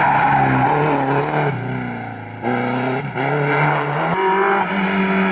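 Rally car engine driven hard, its pitch stepping down with each gear change. It lifts off briefly, going quieter about two seconds in, then accelerates again with a rising rev near the end.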